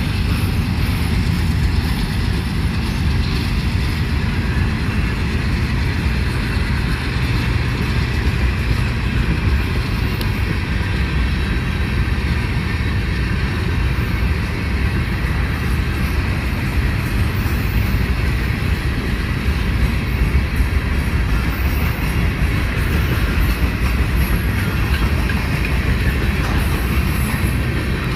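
Florida East Coast Railway freight train rolling past, a steady loud rumble of cars and wheels on the rails.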